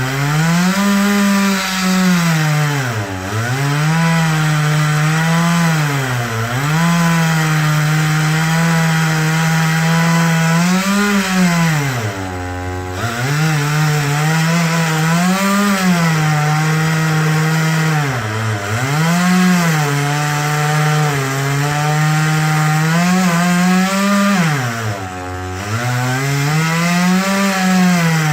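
Chainsaw running near full throttle, most likely cutting wood. Its engine pitch dips briefly about five times and then picks back up.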